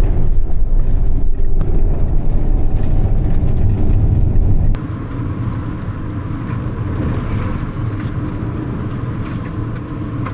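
Car driving, heard from inside the cabin: steady road and tyre rumble. About five seconds in the sound changes abruptly to a lighter, hissier noise with a few faint ticks.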